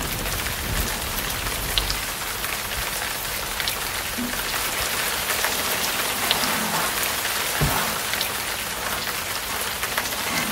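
Steady hiss of falling water pattering on a surface, with fine scattered crackles.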